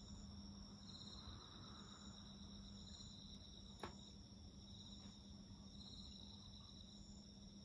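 Faint chorus of insects: a steady high trill overlaid with pulsed chirps that repeat roughly every second. A single sharp pop from the burning wood comes about four seconds in.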